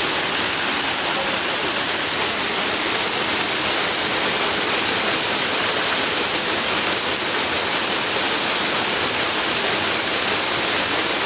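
Rushing river water, a steady, unbroken roar of fast white water tumbling over rocks.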